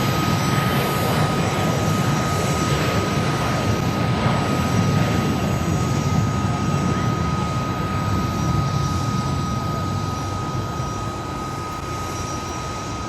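Embraer E170 regional jet's twin General Electric CF34 turbofans at take-off thrust: a loud, steady jet rush with a constant high whine running through it, fading slightly over the last few seconds.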